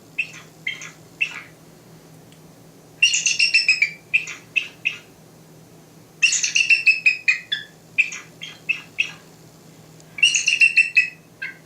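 Recorded eagle calls played back from a bird-sound website: three bouts of rapid, high chittering notes that fall in pitch, with a few separate single notes between them.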